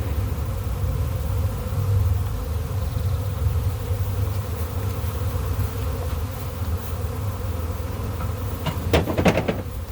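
A large honey bee swarm buzzing steadily, a dense low hum of many bees flying after being shaken off their cluster. A few sharp knocks about nine seconds in.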